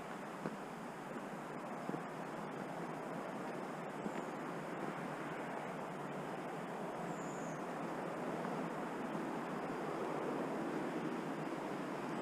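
Steady rush of flowing water, growing a little louder in the second half, with a few faint, high, downward-gliding bird chirps.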